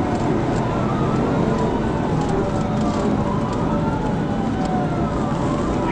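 Police cruiser siren wailing in slow rising and falling sweeps over steady road and wind noise from the car travelling at high speed.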